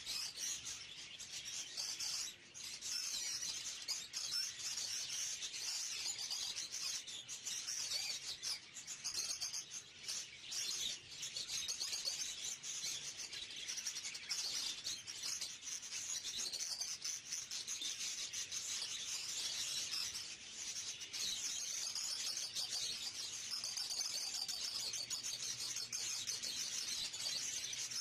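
Many small caged birds chirping and twittering at once, a dense, unbroken chorus of high calls.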